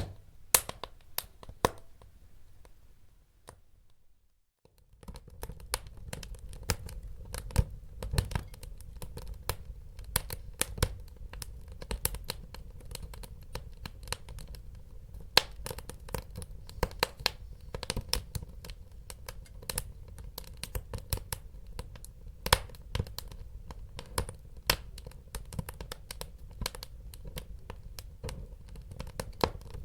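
Wood fire crackling in a fireplace: frequent sharp pops and snaps over a low rumble of burning. The sound drops briefly to near silence about four seconds in, then the crackling resumes with a fuller low rumble.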